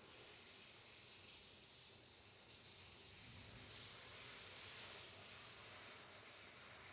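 Rain falling, a faint hiss that swells and eases unevenly.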